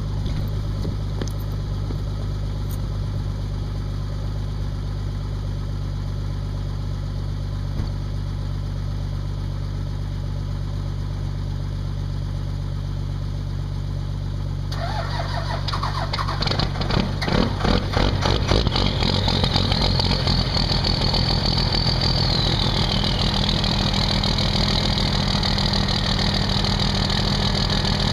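A 12-valve Cummins 5.9 L inline-six diesel being cold-started at about 20°F with no preheat. After a steady low hum, the starter cranks about 15 s in and the engine catches unevenly, firing roughly before settling into a steady idle. A high whine then rises and falls away about 23 s in.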